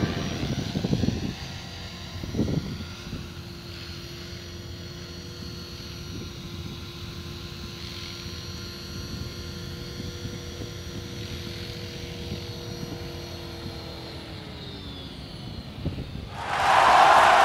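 Radio-controlled Bell 222 scale helicopter running with a steady whine, its tone sinking near the end. Applause breaks out about a second before the end.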